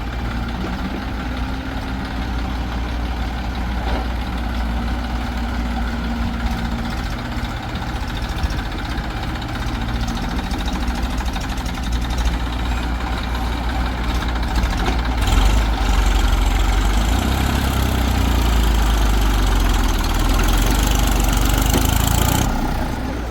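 Heavy diesel engine running steadily, then working harder and louder for about seven seconds from a little past the middle, before easing back near the end.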